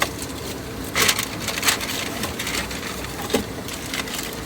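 Rustling and crackling of things being handled and moved about, with a few short sharp knocks, over a steady hiss.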